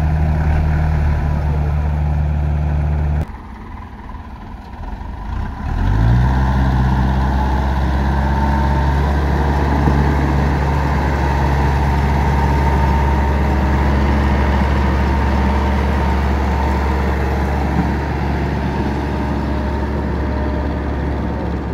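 Heavy engine running with a steady low hum; it cuts off abruptly about three seconds in. After a quieter gap of a few seconds, it runs again, rising briefly in pitch before settling into a steady run.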